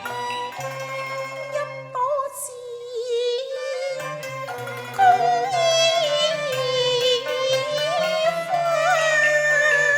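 Cantonese opera accompaniment music: a traditional Chinese ensemble plays a sliding melody with vibrato over low held notes and plucked-string accompaniment, growing louder about five seconds in.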